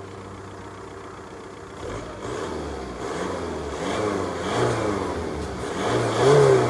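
2002 VW Bora's 1.9 TDI PD four-cylinder turbodiesel, quiet for about two seconds, then accelerating hard. Its pitch climbs and drops back several times as it pulls up through the gears, getting louder.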